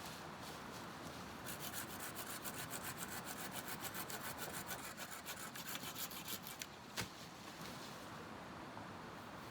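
Hand saw cutting through a wooden branch in quick, even strokes, about five a second, for roughly five seconds, then a single sharp knock.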